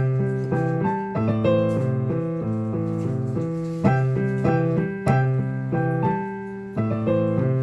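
Jazz piano playing a slow tune, with chords struck every second or so and left to ring.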